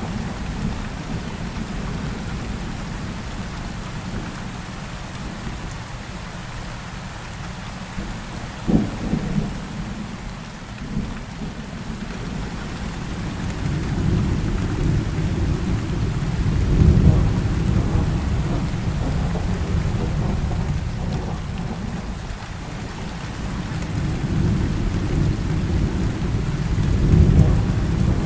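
Heavy rain falling steadily with thunder rolling beneath it: a short crack about nine seconds in, then long low rumbles that build in the second half and peak twice.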